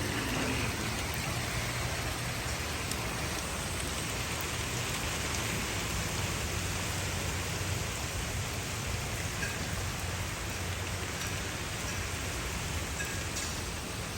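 Heavy rain falling steadily, a dense, even hiss of rain on surfaces with no let-up.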